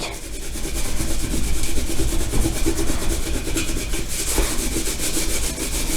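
Wet dishwashing cloth scrubbing a kettle in quick, even back-and-forth strokes. It is rubbing off burnt-on food, carbon and sticky grease with water alone.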